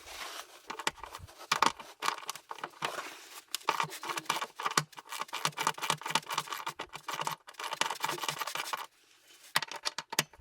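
Hands working with tools and parts: scattered clicks, scrapes and rustling, with a short pause near the end.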